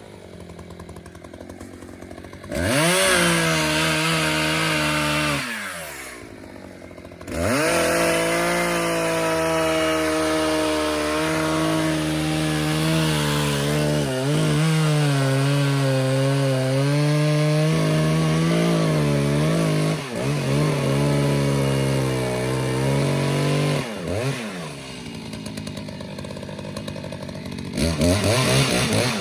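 Two-stroke chainsaw revved up for a few seconds and dropped back to idle, then held at full throttle for about sixteen seconds with its pitch sagging now and then as the chain bites into wood. It falls back to idle and is revved again near the end.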